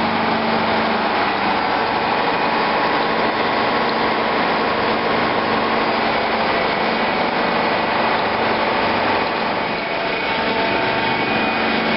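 Steady engine-room machinery noise from running ship's machinery: a continuous loud drone with a faint steady hum and no change in level.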